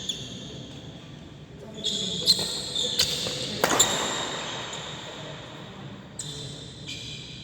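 Badminton rally: rackets striking the shuttlecock several times, with the loudest hit about three and a half seconds in, and shoes squeaking on the court between shots.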